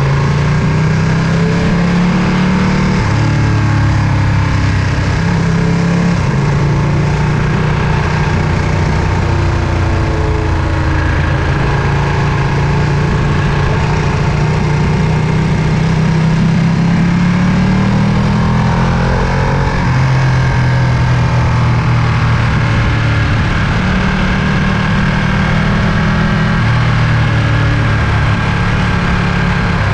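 Ducati Panigale V2's 955 cc L-twin engine running steadily, its note stepping up and down again and again with throttle and gear changes.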